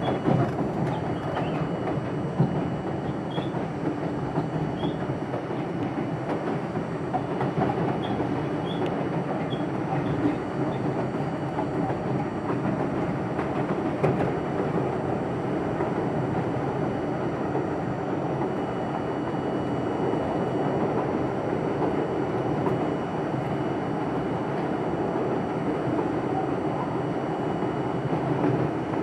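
R42 subway train running at speed, heard from inside the front car: a steady rumble of wheels on rail with faint clacks over the rail joints.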